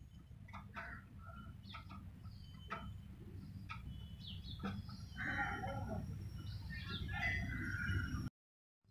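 Birds chirping and calling in short scattered calls over a low, steady background rumble. The calls are busiest about five to six seconds in, and everything cuts off abruptly near the end.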